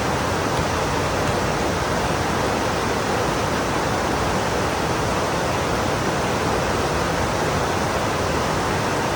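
Heavy rain pouring down, a steady even hiss with no breaks.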